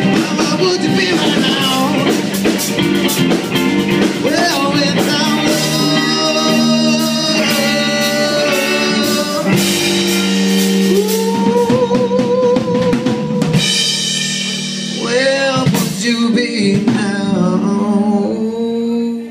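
Band music: a drum kit keeps the beat under guitar, and a singer holds long, wavering notes.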